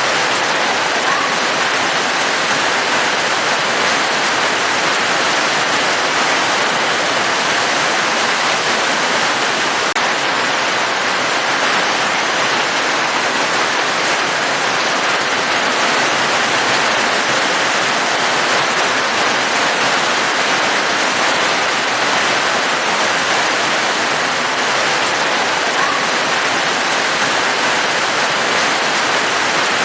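Steady rain sound: an even, unbroken rush of falling water that does not change.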